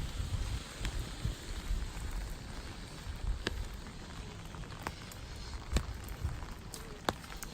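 Steady rain falling, with a few sharp single drips landing close by.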